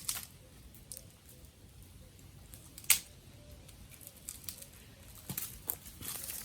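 Dry twigs cracking with scattered sharp snaps: one loud snap about three seconds in, and a cluster of smaller ones near the end.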